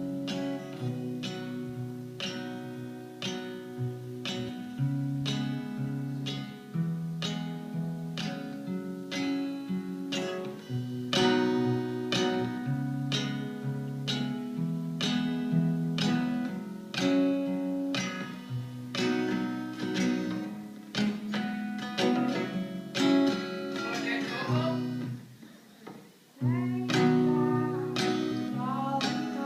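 Guitar playing an instrumental introduction in plucked and strummed chords, with a brief stop about 25 seconds in before the playing resumes.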